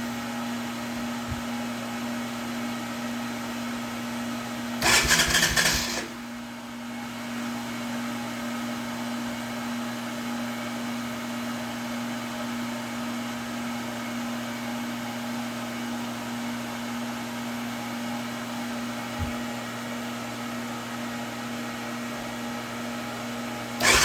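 Hair dryer running steadily with a constant whine while it heats the 1988 Honda 350D's CDI box, with a brief loud burst about five seconds in. At the very end the engine fires and starts, the sign that the heated CDI box has got warm enough to give spark.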